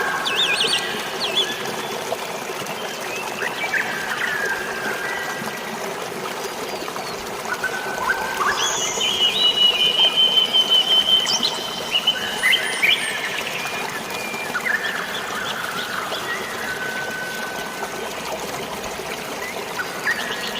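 Steady rush of flowing water and drizzling rain, with forest birds calling over it: scattered short chirps and whistles, and one long high whistled note from about nine seconds in that lasts roughly three seconds.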